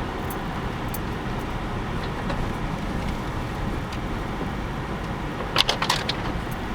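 Car heard from inside the cabin, driving slowly over an ice-covered road: a steady low rumble of tyres and engine. A few sharp clicks come about five and a half seconds in.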